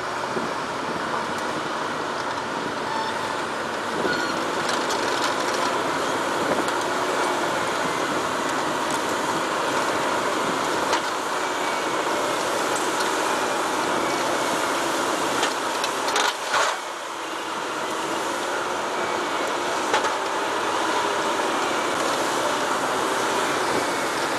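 Heavy machinery running steadily: a dense mechanical noise with a faint wavering whine over it, briefly dropping away about two-thirds of the way through.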